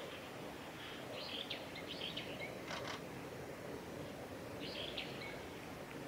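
Wild birds chirping: two bouts of short, high chirps, about a second in and again near the end, with a brief sharp call in between, over a steady background hiss.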